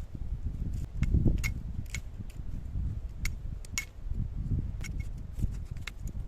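Irregular sharp clicks and knocks, a few a second, over a steady low rumble.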